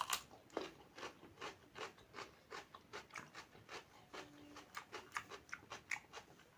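A person chewing crunchy food close to the microphone: a quick, irregular run of crisp crunches and wet clicks, about three or four a second.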